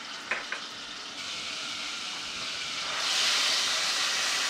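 Blended seasoning paste sizzling in hot oil in an aluminium caldero, a steady hiss, with two light clicks just after the start. About three seconds in the sizzle grows louder as a wooden spoon starts stirring the paste through the oil.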